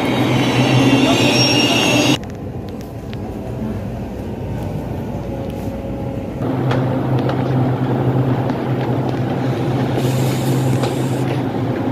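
Taiwan Railways EMU800 electric commuter train in an underground station: for the first two seconds it runs past with high, wavering wheel squeal. After a sudden cut the sound is quieter, then about six seconds in a steady low electric hum from the train sets in and carries on.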